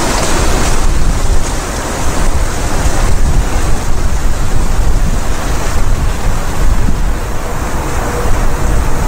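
Wind buffeting the microphone: a loud, uneven rushing rumble, strongest at the low end.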